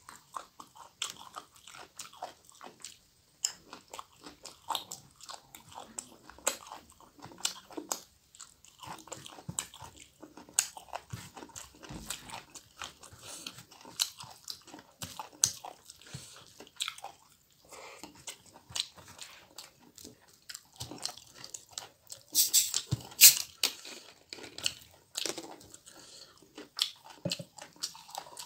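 Close-miked chewing of a hand-fed mouthful of rice with raw mizen leaves: wet smacking and crunching throughout, with a louder run of crunches about three-quarters of the way through.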